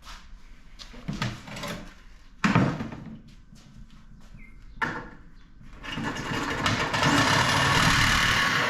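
Loose aluminum scrap pieces knocking and clanking as they are handled and tossed, three separate clanks in the first five seconds. About six seconds in, a louder steady rushing noise starts and holds.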